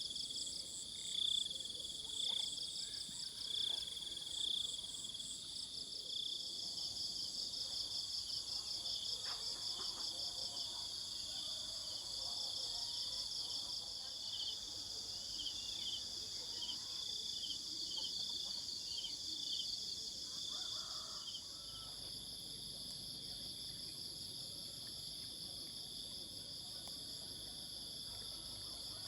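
Outdoor insect chorus, crickets and similar insects trilling steadily in several high pitches, with fast pulsing trills layered over a constant drone. In the first few seconds a short high note repeats about once a second, and about three-quarters through the pulsing trills drop away, leaving the steady high drone over a faint low rumble.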